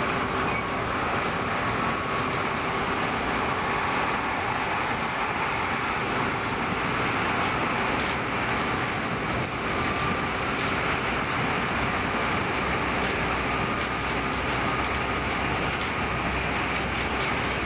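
Class X10 electric multiple unit running on the line, heard on board: a steady rumble of wheels and running gear with a constant hum and scattered sharp clicks.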